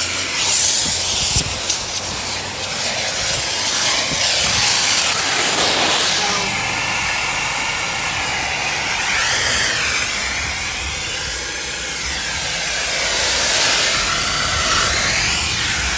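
Car-wash vacuum hose sucking with a loud, steady hiss, its pitch wavering as the nozzle is worked over dirty car floor mats and carpet.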